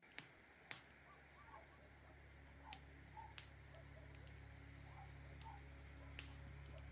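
Faint scattered bird chirps and about eight sharp clicks over a low steady hum.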